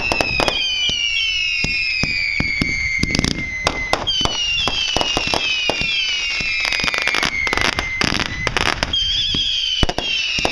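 Fireworks going off in rapid succession: a string of whistles, each falling in pitch, over dense pops and crackling.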